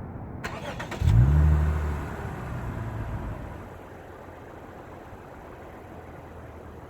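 Lexus IS350's 3.5-litre V6 with an ARK Performance catback exhaust starting up. A brief starter crank is followed about a second in by the engine catching with a loud flare of revs, which drops back and settles to a steady idle.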